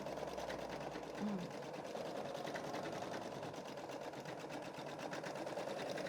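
Computerized embroidery machine stitching out a design: the needle runs at a steady, rapid, even rhythm. A brief low tone sounds just over a second in.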